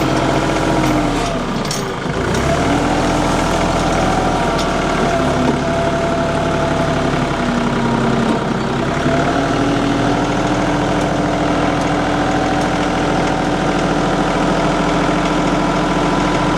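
TYM 2515 compact diesel tractor engine running steadily, with its speed dipping about two seconds in and again around eight to nine seconds, then picking back up.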